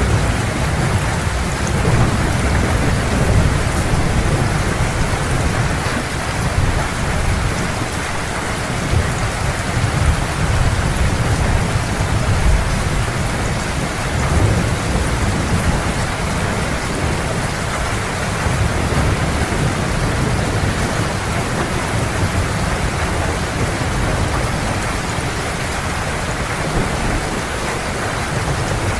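Heavy steady rain with a continuous low rolling rumble of distant thunder underneath.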